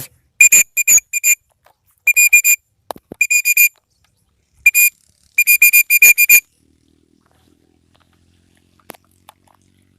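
A whistle blown in quick groups of short, steady-pitched toots, the call used to bring free-flying pet birds back after they have flown far.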